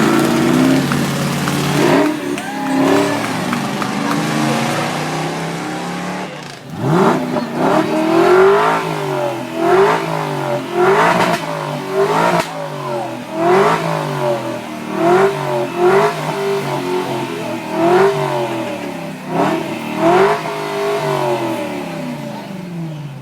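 A supercar's engine being revved hard again and again, the pitch climbing and falling about once a second.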